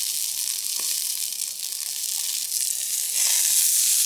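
Bánh xèo (Vietnamese crispy rice-flour crêpe) sizzling in hot oil in a frying pan: a steady hiss that grows a little louder about three seconds in.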